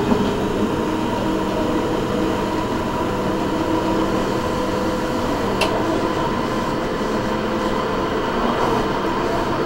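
Electric suburban passenger train running at speed, heard from inside the carriage: a steady rumble of wheels and running gear with a steady hum underneath, and one sharp click about halfway through.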